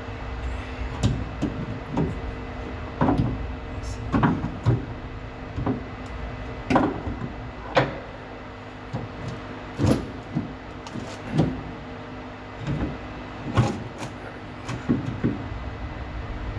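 Irregular metallic clanks and knocks of hand tools and suspension parts as a new lower control arm is worked into position, about one or two knocks a second with pauses, over a steady low hum.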